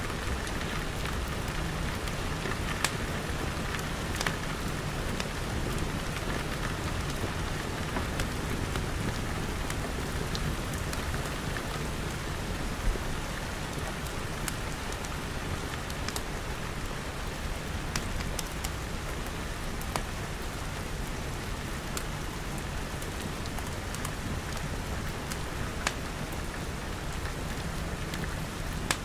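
Steady rain with a deep low rumble under it, and scattered sharp clicks every second or two.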